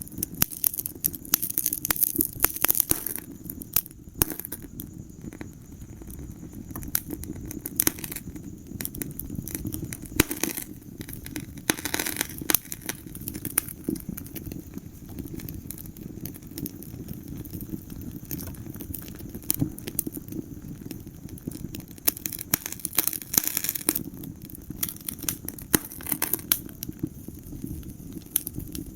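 Fire in a fireplace crackling, with sharp pops at uneven intervals over a steady low rumble.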